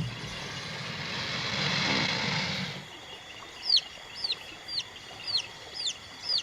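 A rushing noise swells for about three seconds and stops. Then a series of six short, high peeps follows, about two a second, each sliding down in pitch: the calls of young African skimmer chicks.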